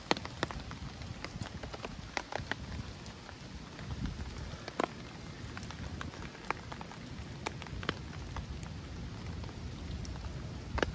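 Rain falling on pavement and grass: a steady hiss with scattered sharp drop ticks at irregular times.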